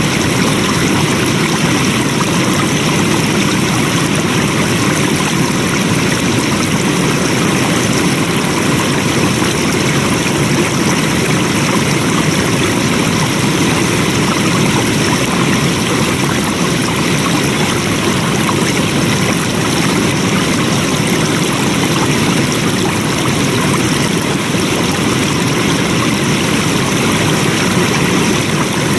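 Stream water flowing, a steady even sound with no change in level.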